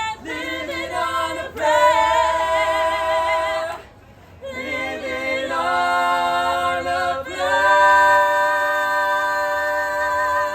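A cappella vocal group, women's and men's voices, singing held chords in close harmony. There is a brief break about four seconds in, then a long sustained closing chord that stops just before the end.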